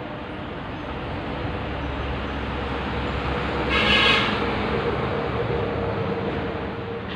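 A vehicle passing close by, growing louder to a peak about four seconds in and then fading, with one short horn toot at the peak.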